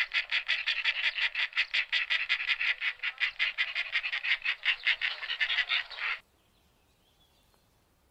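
Vultures giving a fast, harsh chattering cackle of about seven or eight notes a second, which stops abruptly about six seconds in. Faint high bird chirps follow.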